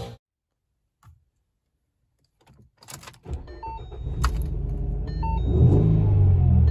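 Ford Mustang being started: a faint click, a brief crank about three seconds in, then the engine catches and runs with a steady low idle. A short dashboard chime sounds twice over it.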